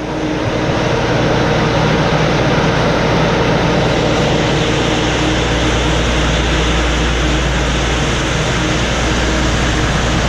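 Tractor engine running with the rear-mounted snowblower turning, a loud steady mechanical noise that builds up over the first second and then holds.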